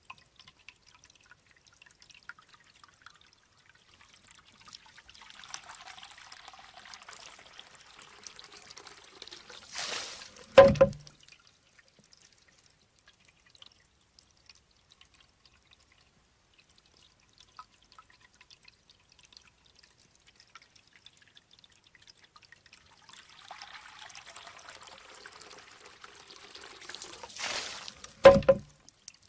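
Shishi-odoshi bamboo fountain going through two cycles: water trickles into the bamboo tube for several seconds, spills out in a short rush as the tube tips, and the tube strikes its stone with a single hollow clack, about 11 seconds in and again near the end. Faint drips in between.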